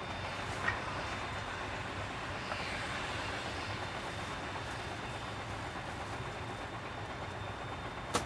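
Container truck on the move: steady engine and road noise with a low hum. Two short clicks, one about a second in and one at the very end.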